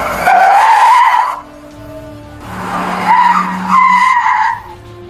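Car tyres squealing twice as vehicles pull away hard, each squeal a loud wavering screech lasting a second or two, over background music.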